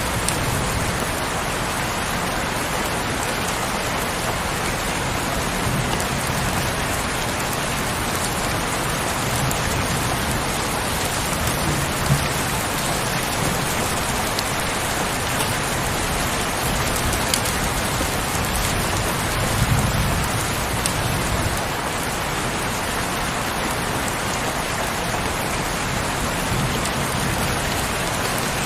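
Heavy rain falling steadily, a dense even hiss of drops. A low rumble swells briefly twice, about twelve and twenty seconds in.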